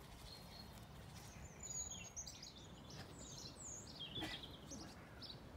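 Faint birdsong: small birds chirping and twittering in short, high, scattered phrases over a quiet outdoor background.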